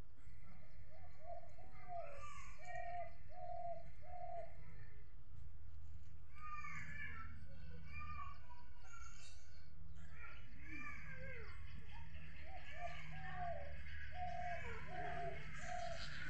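Birds calling: a dove-like cooing in two runs of short, evenly spaced repeated notes, with other small birds chirping higher up, over a steady low rumble.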